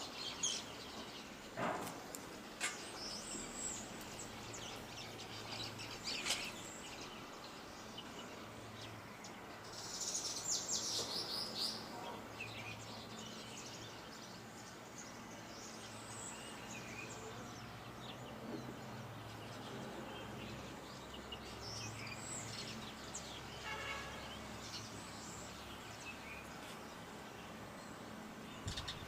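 Songbirds chirping on and off, with a busy flurry of chirps about a third of the way through, over a faint steady low rumble of outdoor background noise.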